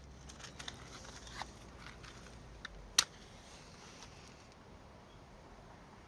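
Faint, scattered crackling of a small wood fire, with one sharp pop about three seconds in.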